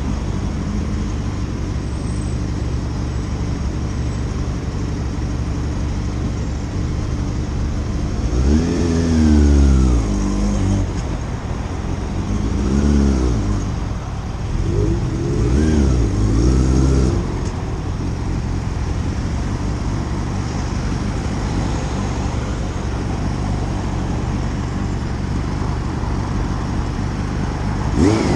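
Motorcycle engine running under steady road and wind noise, revving up and easing off in three spells starting about a third of the way in, then settling back to a steady drone.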